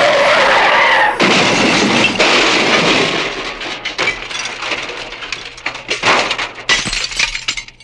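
A loud smash, followed by several seconds of crackling, clattering debris that slowly dies away.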